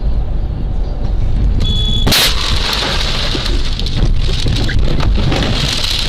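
Vehicle road noise, then a brief high tone and a sudden loud impact about two seconds in. It is followed by several seconds of crunching, scraping noise: a car collision caught on a dashcam.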